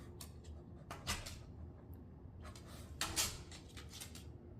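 A scattering of light knocks and clicks in a quiet room, the loudest cluster about three seconds in, with another about a second in.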